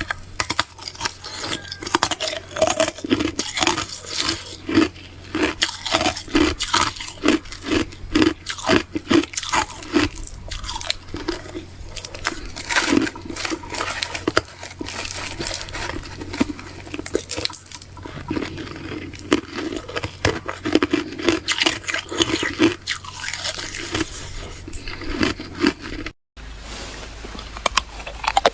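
Ice being bitten and chewed close to the microphone: a dense run of sharp crunches, several a second, broken by a brief dropout near the end.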